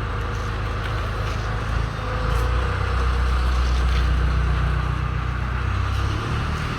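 Diesel truck engine running on the move, a steady low drone that grows louder about two seconds in and changes pitch just after six seconds.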